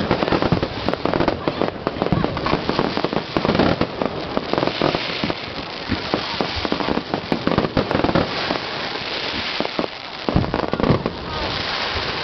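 Fireworks going off: a dense, rapid crackle of many small bursts over a steady fizzing hiss.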